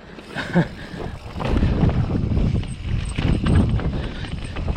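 2020 Transition Patrol mountain bike being ridden over a dirt trail: tyre rumble with rapid clicks and rattles from the bike, growing louder about a second and a half in as it picks up speed.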